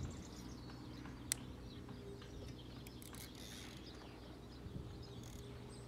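Quiet outdoor background with birds chirping faintly and a single sharp click about a second in.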